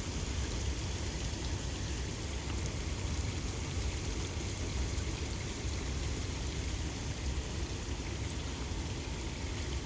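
Steady rain falling, an even hiss with faint scattered drop ticks and a low steady rumble underneath.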